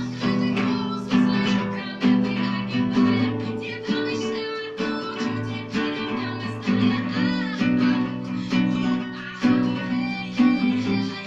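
Acoustic guitar strumming chords, a fresh strum roughly every second with the chords ringing on between them.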